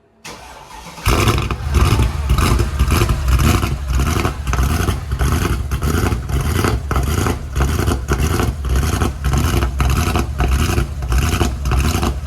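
Mercedes-Benz E55 AMG's 5.4-litre V8 starting up about a second in, then idling with an uneven, lumpy lope that makes it sound cammed. The rough idle comes with a throttle pedal fault: pressing the pedal gives no response.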